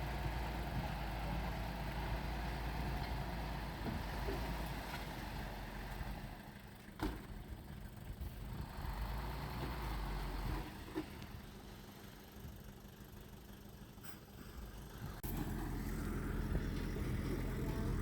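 Heavy diesel engine of construction machinery running steadily, fading for several seconds in the middle with a couple of short knocks, then coming back suddenly louder about three-quarters of the way through.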